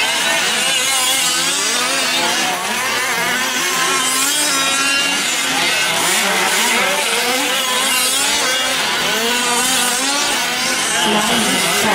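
Several 1/5-scale gas RC trucks' small two-stroke engines racing together, their pitches constantly rising and falling and overlapping as the throttles open and close.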